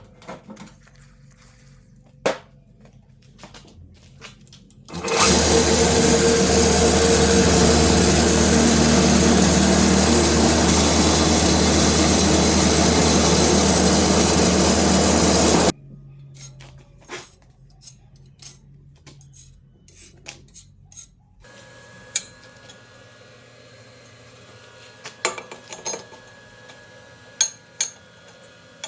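An electric power tool runs loudly and steadily for about ten seconds, starting about five seconds in and cutting off abruptly. Scattered clicks and knocks of handling come before and after it.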